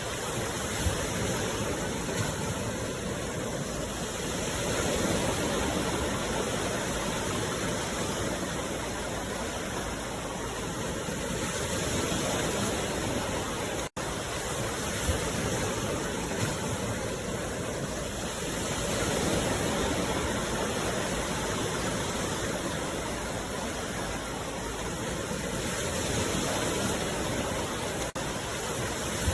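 Sea waves washing onto the shore: a steady rush of surf that swells and eases about every six or seven seconds, with a momentary break in the sound about halfway through.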